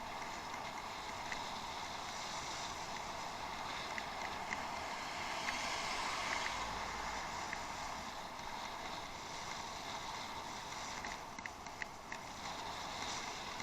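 Steady rolling noise of a bicycle ride heard through a head-mounted action camera: tyres on the track and rushing air, with scattered light ticks.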